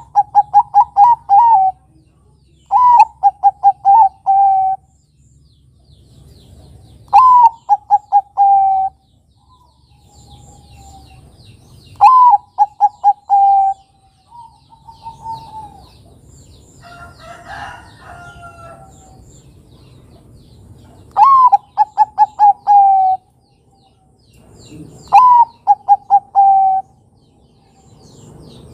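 Zebra dove (Bangkok perkutut) singing its cooing song six times. Each phrase opens on a higher note and drops into a quick run of short, even coos.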